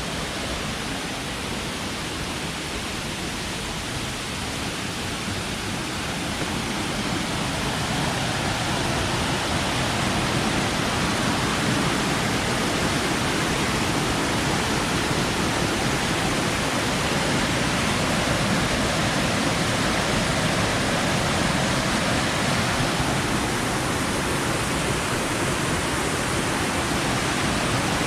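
Steady rush of water falling down a multi-tiered waterfall, an even noise with no distinct events that grows somewhat louder over the first ten seconds and then holds.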